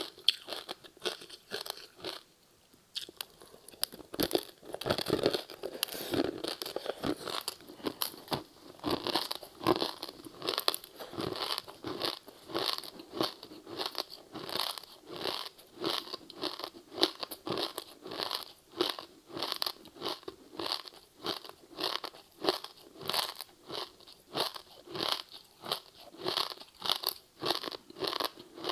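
Close-up chewing of a rice snack wrapped in crispy seaweed, the seaweed crunching. After a short pause a fresh bite comes about four seconds in, followed by steady rhythmic chewing at about two crunches a second.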